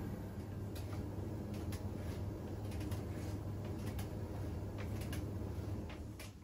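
Siemens iQ700 WG56B2090 washing machine running with a steady low hum and irregular clicks, fading out near the end.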